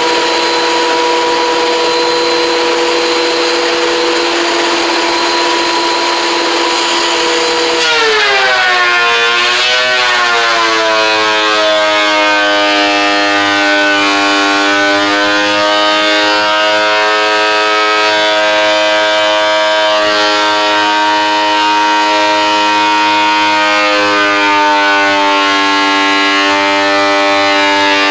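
A woodworking power tool's electric motor running with a steady high whine. About eight seconds in, its pitch drops sharply and wavers as it takes load, the sign of stock being fed into the cutter. It then keeps running at the lower, loaded pitch.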